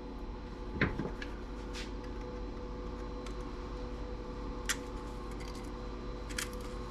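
A few light clicks and taps of hand tools and parts being handled while a CRT TV's flyback transformer is taken apart, over a steady electrical hum.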